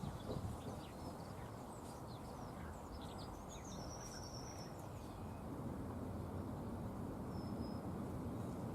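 Small garden birds calling: a flurry of short, high chirps in the first half, a longer thin whistled note near the middle and one more near the end, over a steady low background rumble.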